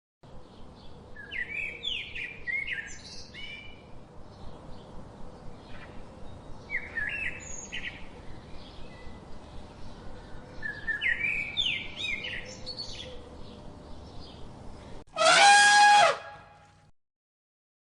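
Birds chirping in short bursts of quick high notes, three clusters of them, over a steady outdoor background hiss. About fifteen seconds in, a loud blaring call with a rich stack of harmonics cuts in for about a second and a half and stops suddenly.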